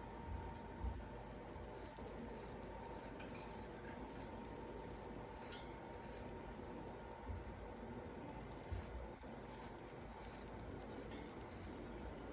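Sugar glider clicking in a rapid, steady run of fine clicks, many a second, calling out as it looks for its companions. A few soft bumps near the start and in the middle.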